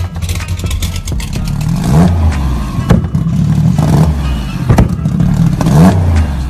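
Turbocharged car engine revved hard three times, each rev a quick rising pitch, with a sharp crack after the first two revs.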